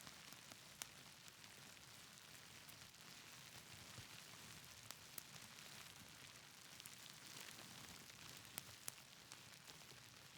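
Soft, steady rain hiss mixed with the irregular sharp pops and crackles of a wood fire, a few pops standing out louder than the rest.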